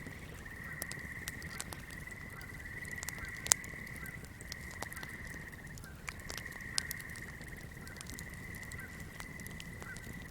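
Swamp chorus of frogs or insects giving a steady high trill, with faint chirps beneath it, over scattered fire crackles. The loudest crackle is a sharp snap about three and a half seconds in, with another near seven seconds.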